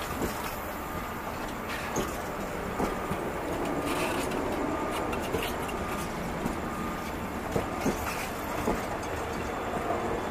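Passenger carriages of the Eastern & Oriental Express rolling past as the train pulls out of the station. A steady rumble is broken by irregularly spaced clacks and knocks of the wheels over rail joints.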